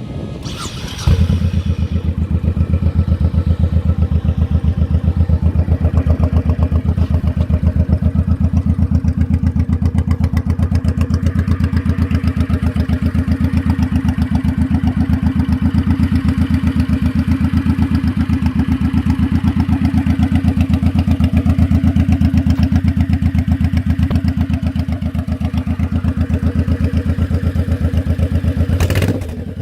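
Cold start of a 2007 Honda Shadow VT1100C2's V-twin through Cobra aftermarket exhaust: it fires about a second in and settles into a steady, loud, pulsing idle. Near the end the level dips briefly.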